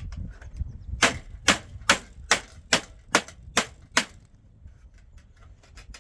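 Hammer driving a nail into wood: eight quick, evenly spaced blows, about two a second, starting about a second in and stopping about a second later than the halfway point.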